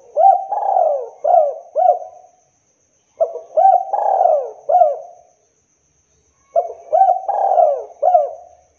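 Spotted dove (tekukur) cooing: three phrases of several coos each, repeated about every three seconds.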